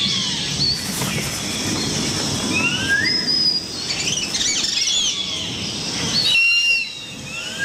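Birds calling: a string of short rising whistles and higher chirps, with a low rustling noise underneath.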